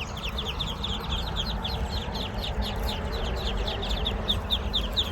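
A crowd of newly hatched Muscovy ducklings peeping continuously: many short, high, downward-sliding peeps overlapping several times a second, over a steady low rumble.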